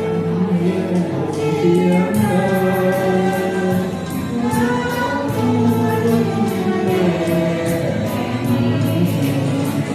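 A song: several voices singing long held notes together over instrumental backing with a steady beat.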